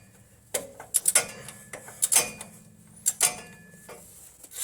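Ratchet of a click-type torque wrench being worked on a suspension bolt: a run of sharp metallic clicks and knocks in short strokes.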